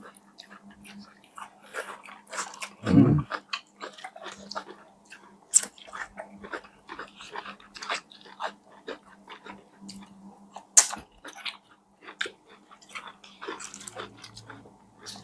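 Close-up chewing and biting of crispy fried chicken: many small crunches, clicks and wet mouth sounds with no speech, over a steady low hum. About three seconds in there is one short, louder low-pitched sound.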